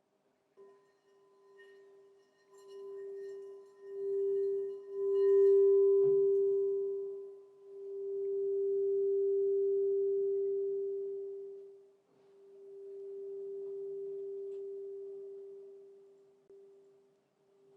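Crystal singing bowl ringing with one steady tone and a faint higher overtone, swelling and fading in slow waves, loudest about six seconds in.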